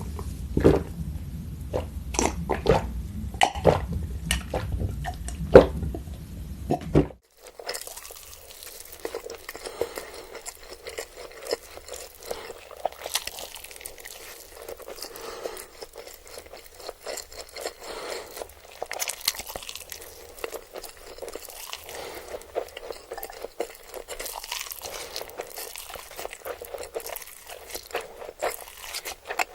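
Close-miked eating: crunchy bites and chewing with sharp cracks for about the first seven seconds, then, after a sudden change of recording, softer and wetter chewing with many small quick clicks.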